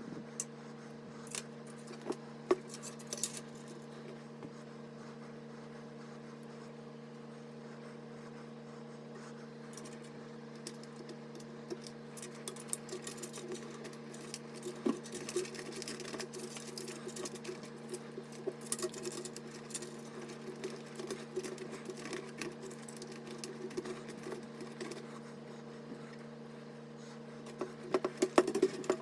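Light clicks, taps and scratchy rustling from small computer parts being handled, over a steady low hum. The handling gets busier from about halfway through.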